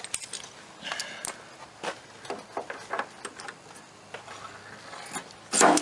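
Light clicks and taps of a glue-tab dent puller being set up and worked, then one short, loud crack near the end as the pull is made.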